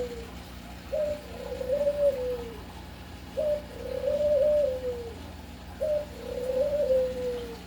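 A dove cooing over and over, one call about every two and a half seconds. Each call is a short note followed by a longer, wavering note that falls away.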